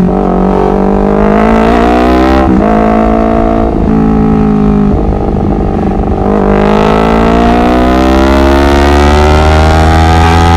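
Honda CBR250RR motorcycle engine accelerating hard through the gears, the pitch climbing and dropping back at each gear change, four times in the first half, then one long rise in pitch through the second half.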